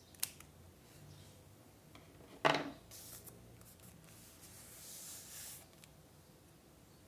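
Scrapbooking handling sounds: a light click, then a sharper knock of a small hard object set down on the desk about two and a half seconds in, followed by a few seconds of soft paper rustling and rubbing.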